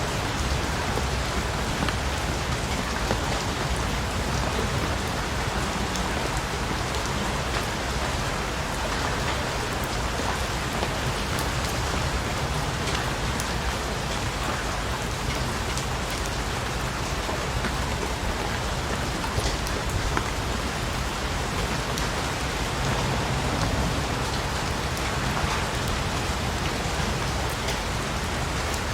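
Steady rain falling on a surface, with many individual drops pattering close by.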